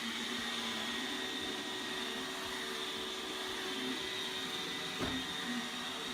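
iRobot Roomba 690 robot vacuum running: a steady whir with a high whine, and a brief knock about five seconds in.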